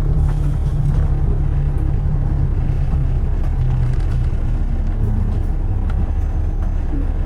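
Steady low rumble of city road traffic, with engine and tyre noise.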